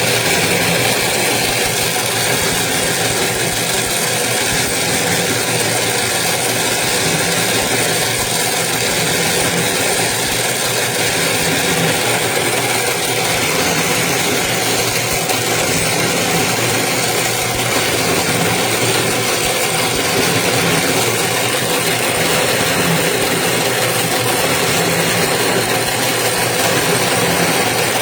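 Toroidal transformer winding machine running steadily, its motor making a continuous even hum with a faint high whine.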